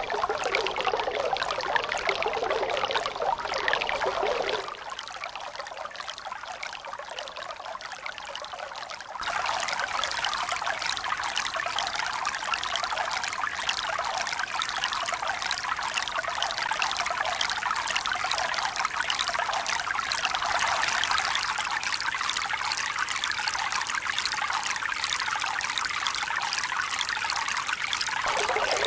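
Water running and splashing steadily, a continuous hiss without the rise and fall of breaking waves. About five seconds in it abruptly turns quieter and thinner, and about nine seconds in it jumps back louder and brighter.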